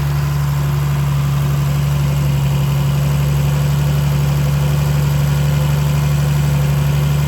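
1970 Triumph TR6's 2.5-litre straight-six engine idling steadily, still warming up after a cold start.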